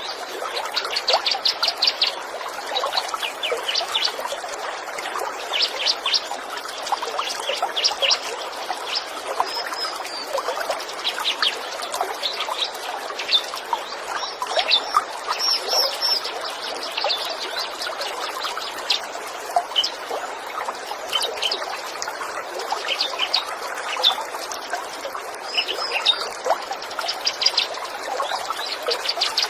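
A stream of water trickling and babbling steadily, with small songbirds calling over it in quick trills and chirps of rapid high notes that come and go every few seconds.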